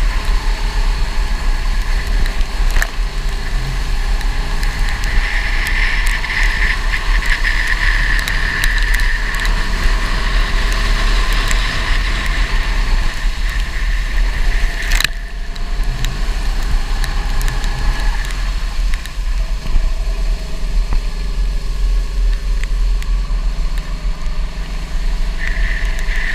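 Go-kart engine running and revving up and down through corners, with a heavy low rumble of wind on the microphone. A sharp knock about halfway through.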